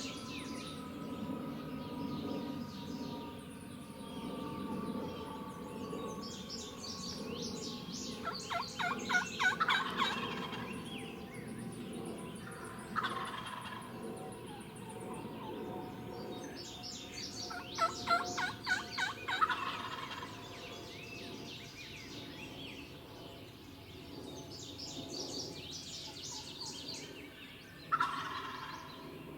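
Wild turkey gobblers gobbling repeatedly, with rattling gobbles about nine, thirteen, eighteen and twenty-eight seconds in; those around nine and eighteen seconds are the loudest. Songbirds chirp throughout.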